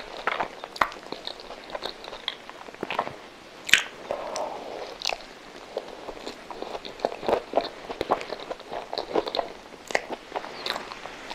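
Mouth sounds of a person biting into and chewing a soft coconut-coated milk custard roll, a quick run of small clicks and smacks, busiest in the second half.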